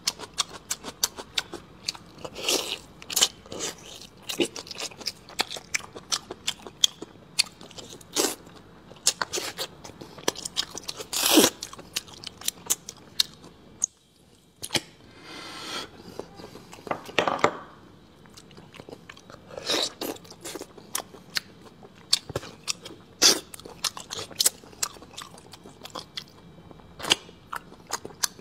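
Close-miked eating sounds: steady chewing and biting with many sharp, irregular wet clicks and crunches, briefly pausing about halfway through.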